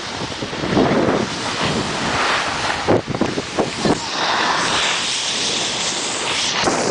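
Wind rushing over the microphone along with the hiss and scrape of a snowboard sliding over snow, with a few sharper scrapes about three to four seconds in.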